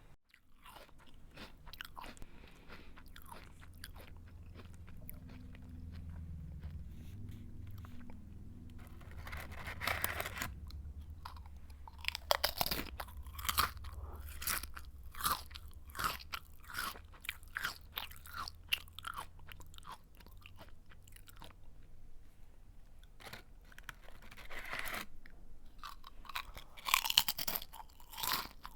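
Someone chewing and biting into a crunchy snack, close to the microphone: irregular crackling crunches, sparse at first, then dense and louder from about twelve seconds in.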